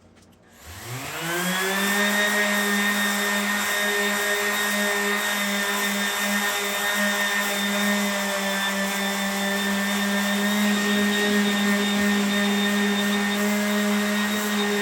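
Electric sander starting up about half a second in, its pitch rising quickly and then holding as it runs at a steady speed.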